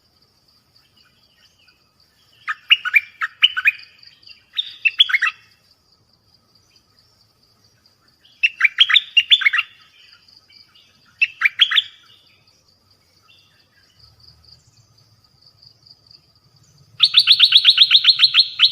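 Songbird chirping in short bursts of quick sweeping notes, then breaking into a fast, loud run of rapid repeated chirps near the end. A faint, steady, high pulsing tone continues underneath.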